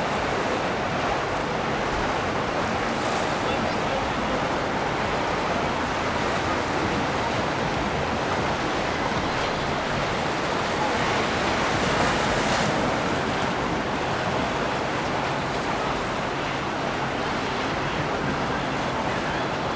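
Steady rush of water and wind with a low boat-engine hum underneath, swelling a little about twelve seconds in.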